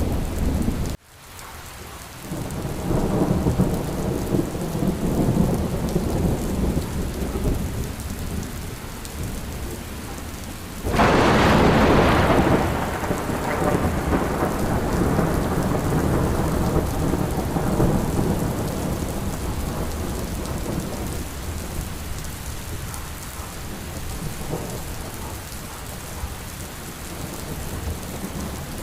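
Steady heavy rain with low, rolling thunder. About eleven seconds in, a sudden loud thunderclap breaks in and fades away over several seconds. The sound briefly drops out about a second in.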